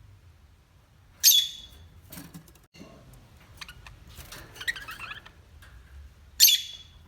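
A parrot giving two short, loud calls about five seconds apart, with quieter chattering and clicks between them.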